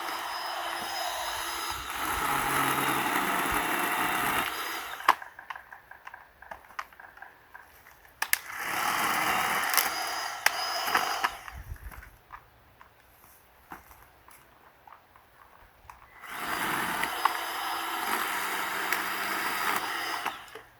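A 20-volt cordless shark-tooth mini saw running in three bursts of several seconds each, cutting through firewood branches, with scattered knocks of wood being handled in the pauses between cuts.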